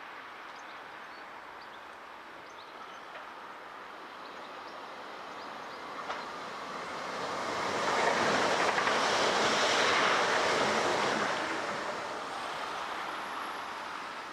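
Electric multiple-unit passenger train passing on the tracks below: a rushing wheel-on-rail noise that swells from about six seconds in, is loudest for a few seconds, then fades away near the end.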